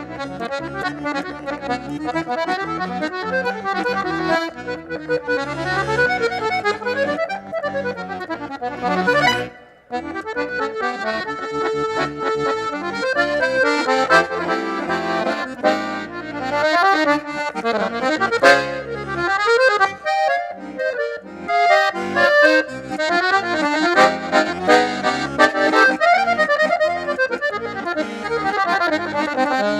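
Accordion (gaita) playing fast, busy melodic runs over chords in the southern Brazilian gaita style. It breaks off briefly about a third of the way through, then carries on.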